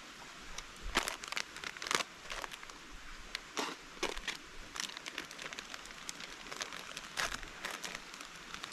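Irregular crunching and crackling of dry material, starting about half a second in, with the sharpest crackles about one and two seconds in and a scatter of smaller ones after.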